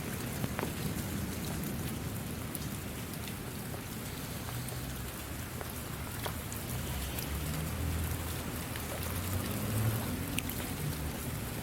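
Steady rainfall, an even hiss with scattered individual drops ticking on a surface. A low rumble underneath grows stronger in the second half.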